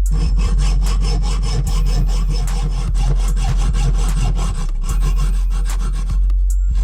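Rough rasping and scraping of a tool working on metal, in quick irregular strokes.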